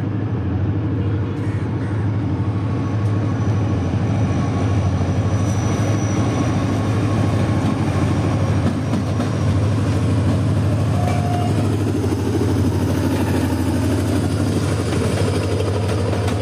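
Diesel-electric locomotives of two passenger trains running close by, their engines a steady deep drone, with the train rolling past on the rails.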